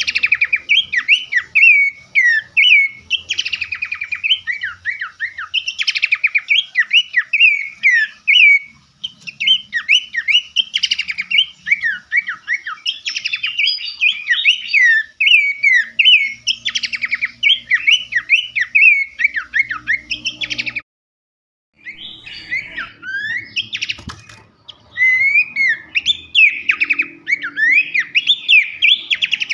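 A songbird singing a fast, nearly unbroken stream of sharp chirps, rattling trills and whistled notes, the kind of bird-song recording played as masteran to teach caged songbirds. The song stops dead for about a second a little over two thirds of the way through, then carries on.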